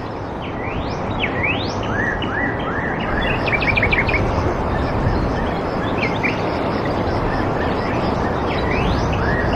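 Wild birds calling over a steady rushing background noise: rising whistled notes, a quick run of chirps about four seconds in, and more whistles near the end.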